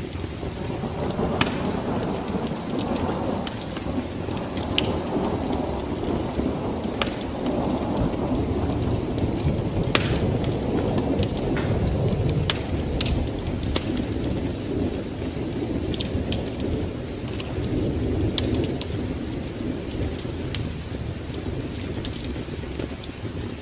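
Fireplace wood fire crackling, with frequent irregular sharp pops and snaps over a continuous low rumble.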